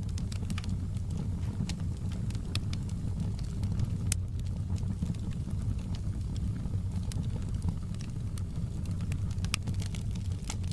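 Wood fire burning in a fireplace: a steady low rumble of flames with scattered sharp crackles and pops of burning logs, a few louder pops about four seconds in and near the end.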